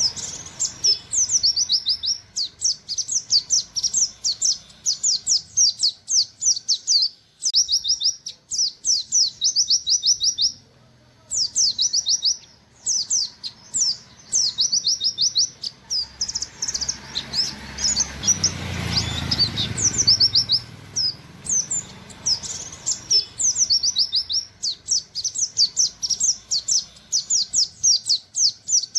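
Pleci (white-eye) singing its 'nembak' song: long runs of fast, high, down-slurred 'wit wit' notes, several a second, broken by short pauses. About two-thirds of the way in, a low rumble swells and fades over a few seconds beneath the song.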